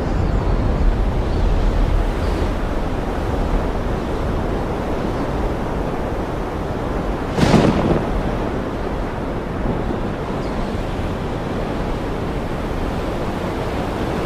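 Steady, loud rushing storm noise of rain and water with wind rumbling on the microphone. A single short, sharp crack cuts through about halfway in.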